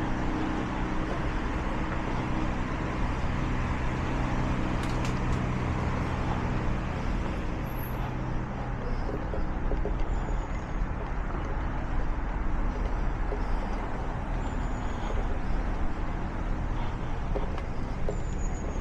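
Steady urban road traffic noise, with a vehicle engine's low hum running through the first half and weakening later.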